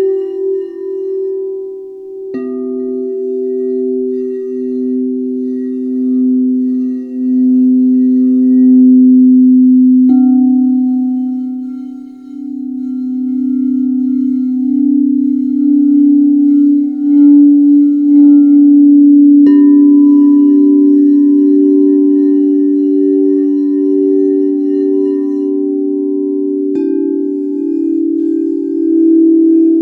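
Singing bowls at several pitches struck four times, roughly every seven to nine seconds, each note ringing on long with a slow wavering pulse and overlapping the one before.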